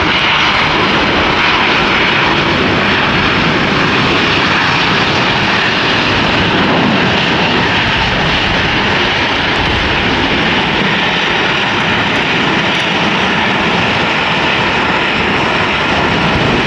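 Jet airliner's engines running at takeoff thrust: a loud, steady roar that eases slightly near the end.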